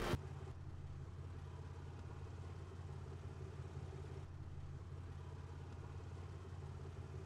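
Car engine running at a steady low hum, heard from inside the cabin.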